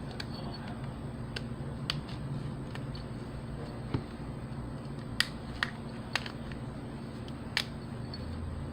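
Plastic clips of an LG K10 phone's frame snapping loose one after another as a pry tool works around the edge: about eight sharp, irregular clicks, the loudest ones a little past halfway, over a steady low hum.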